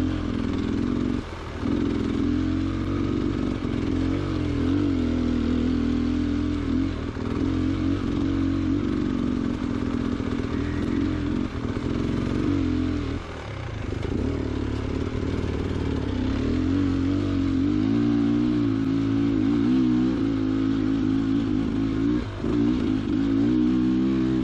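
2022 Beta Xtrainer 300's two-stroke engine running at low, varying revs, the pitch rising and falling as the throttle is worked. It eases off briefly about a second in and again around the middle. Rocks clatter and scrape under the tyres.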